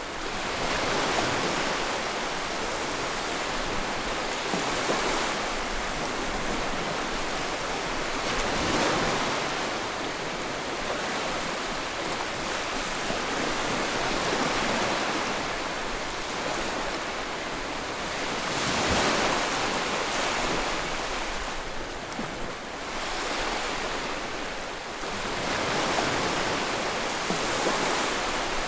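Ocean waves breaking and washing onto the shore, a steady rush of surf that swells with each wave every four to six seconds.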